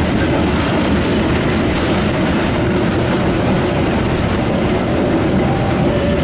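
Train running at speed, heard from inside the carriage: a steady rumble of wheels on the rails.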